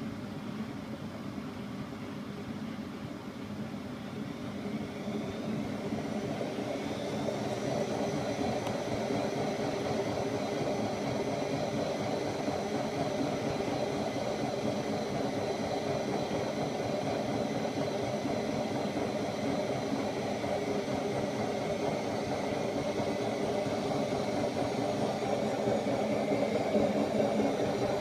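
Bosch Classixx WAA20280 washing machine's drum motor speeding up, a rising whine over a few seconds, then running steadily with a rumble and whine. The machine has a failed drum bearing.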